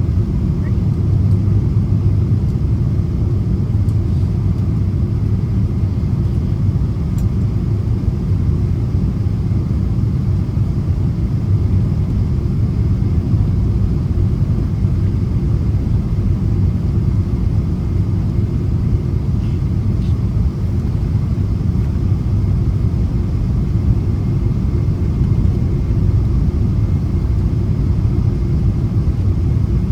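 Steady cabin noise inside a Boeing 777-200ER on approach: the low rumble of the engines and airflow heard from a window seat, unchanging throughout.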